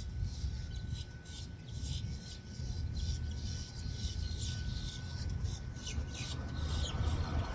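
Outdoor background with a steady low rumble, a faint steady high tone, and scattered short rustling or scraping sounds.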